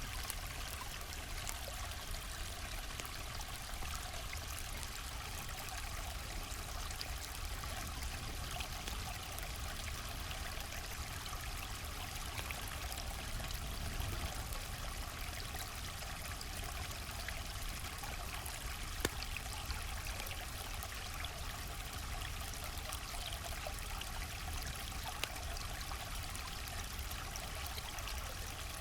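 River water flowing steadily, a continuous rushing and trickling over a low rumble, with a couple of brief sharp clicks about two-thirds of the way in and again near the end.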